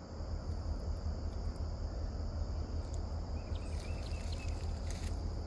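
Steady high-pitched drone of insects such as crickets, over a constant low rumble, with a few faint chirps and small ticks about halfway through.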